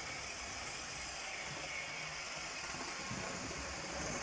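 An old tender-drive OO gauge model locomotive running steadily round the track on DC: the small motor and the wheels on the rails make a steady, quiet mechanical running noise.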